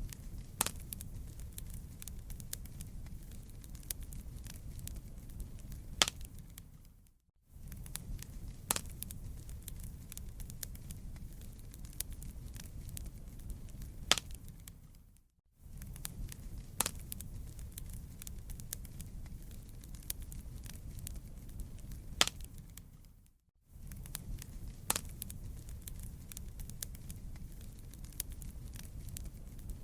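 Wood fire burning: a steady low rumble with frequent sharp crackles and pops. The sound fades out briefly and comes back about every eight seconds.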